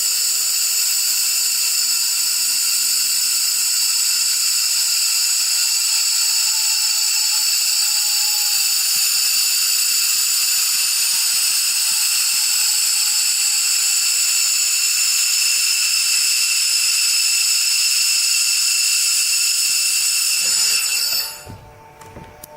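Air-cooled handheld laser welding machine running: a loud, steady high-pitched hiss with a whine of several steady tones, cutting off suddenly about 21 seconds in.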